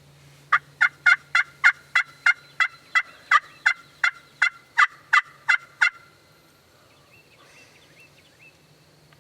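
Wild turkey yelping close by: a long run of about seventeen loud, evenly spaced yelps, about three a second, that stops about six seconds in.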